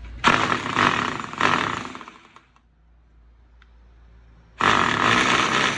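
Electric concrete drill switched on and run in two bursts of about two seconds each with a pause between, running at full speed after its carbon brushes have been refitted.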